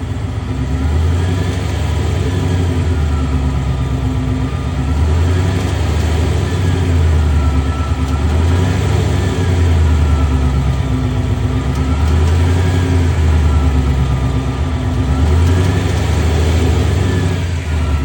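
2021 Ford Mustang GT's 5.0 V8 running with engine speed rising and falling again and again, about every two seconds, a faint whine going up and down with it. The car has a weird noise from under the car or engine that the owner cannot identify.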